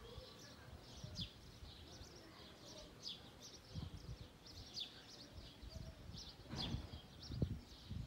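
Small birds chirping in short, repeated high notes, with irregular low rumbles underneath.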